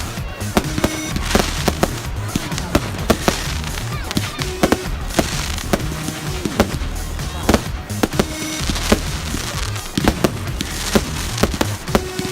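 Fireworks going off in a rapid, irregular run of bangs and crackles, with music playing underneath.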